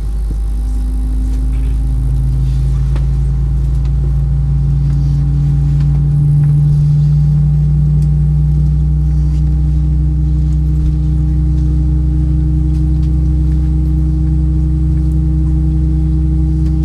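Airbus A320-232's IAE V2500 jet engines heard as a steady low hum inside the passenger cabin. The tones rise slightly in pitch and the hum grows a little louder over the first several seconds, then holds.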